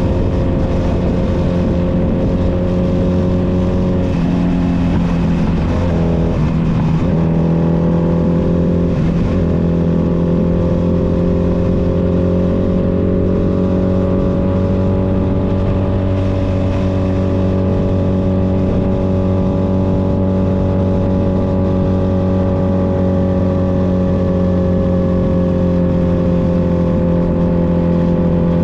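Honda Nighthawk 250's air-cooled parallel-twin engine running steadily while the motorcycle is ridden. The engine note shifts and wavers briefly a few seconds in, then holds an even pitch that drifts only slowly.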